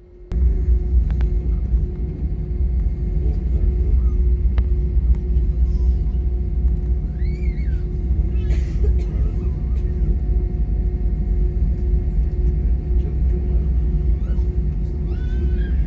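Airliner engines heard from inside the passenger cabin: a loud, steady deep rumble with a constant hum, setting in suddenly just after the start, as the plane prepares for take-off.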